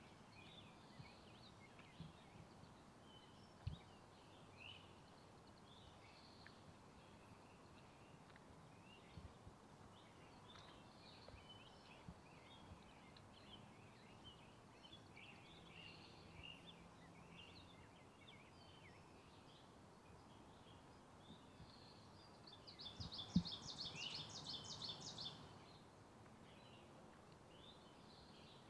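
Faint, quiet woodland ambience with scattered songbird chirps and calls throughout. About 22 seconds in, a louder rapid trill of repeated notes lasts about three seconds, and a single sharp thump comes at its start. A few soft thumps are scattered through the rest.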